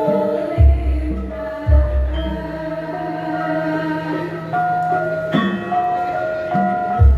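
Javanese gamelan ensemble playing a gending: bronze metallophones sound overlapping ringing tones that move from note to note. Deep booming strokes land about half a second in, again near two seconds, and at the very end.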